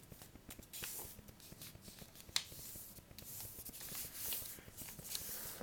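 Sheet of paper being folded and creased by hand: soft rustling with sharp crackles now and then, the sharpest about two and a half seconds in.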